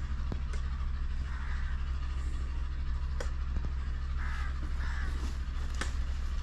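Crows cawing several times over a steady low mechanical hum, with a few sharp clicks in between.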